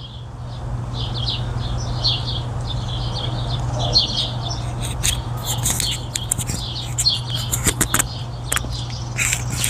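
Small birds chirping over and over, above a steady low hum, with a few sharp clicks in the second half.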